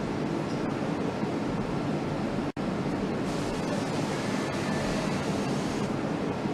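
Steady noise of a machinery-filled factory hall, an even rushing hum, broken by a momentary dropout about two and a half seconds in.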